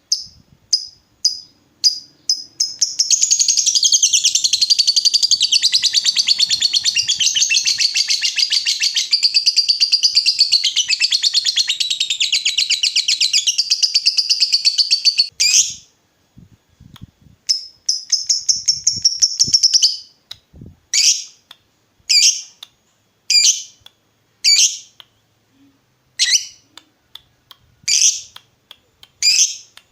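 Lovebird singing a long 'ngekek': a rapid, high chattering trill held for about twelve seconds, then a shorter trill, then single short chirps about once a second.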